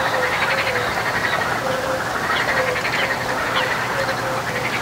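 Chorus of frogs calling: a short low note repeating about three times a second over a dense, rapid croaking chatter, with a few brief high chirps mixed in.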